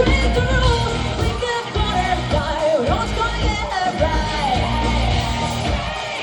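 Rock band playing live, drums and bass under a singer's voice sliding in pitch, shouted in places.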